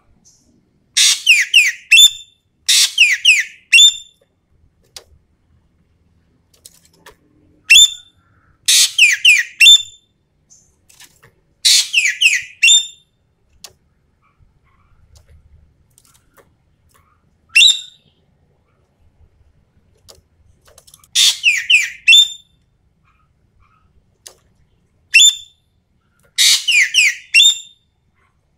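Ekek keling, a Sumatran bird, calling in loud bursts about a second long, each a rapid run of downward-sweeping, high whistled notes. About nine such bursts come at uneven intervals, with short gaps between them.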